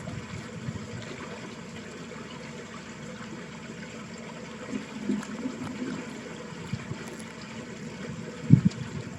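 Water running in a small village ditch, a steady trickling flow with low gurgles, and a brief low thump about eight and a half seconds in.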